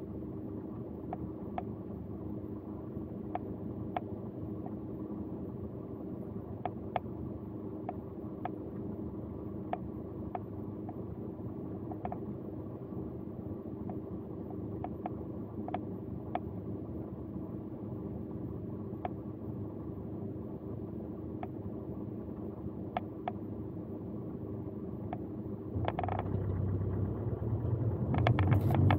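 Car engine idling steadily inside the cabin while stopped, with faint light ticks about once or twice a second; about 26 seconds in the low rumble grows louder as the car pulls away.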